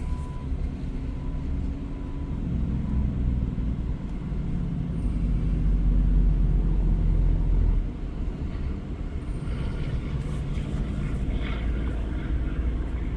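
Diesel engine of a heavy-haul semi truck running steadily, growing louder about five seconds in and dropping back just before eight seconds. A faint repeating beep fades away in the first few seconds.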